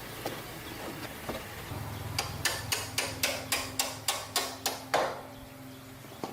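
A quick run of about a dozen sharp ticks or taps, about five a second, over a low steady hum.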